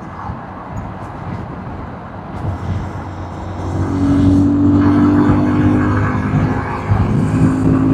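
Motorcycle engine running under way with wind and road noise. It grows louder about three and a half seconds in and then holds a steady note.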